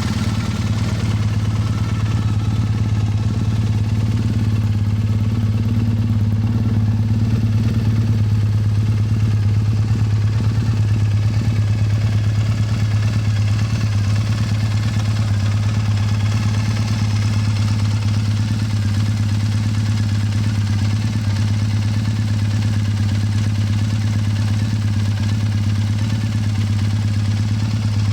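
Fuel-injected Triumph Bonneville's parallel-twin engine idling steadily through an aftermarket Toga classic-style exhaust, with a deep, bassy note.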